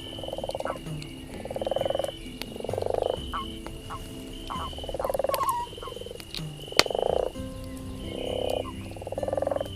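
Frogs croaking over and over, each croak a short rapid rattle about half a second long, coming roughly once a second. Sharp pops of a crackling campfire sound between them, with one loud pop about seven seconds in.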